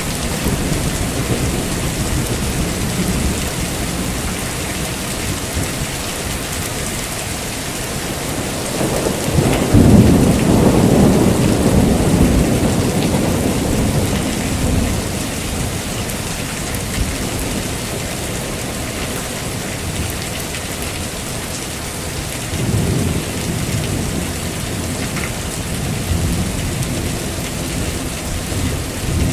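Heavy rain falling steadily, with thunder: a loud low rumble swells about nine seconds in and rolls away over several seconds, and a weaker rumble follows later.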